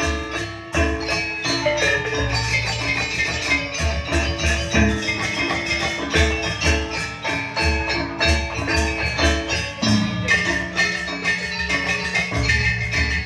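Live janger gamelan music: bronze metallophones play a fast, busy mallet melody over repeated low drum strokes.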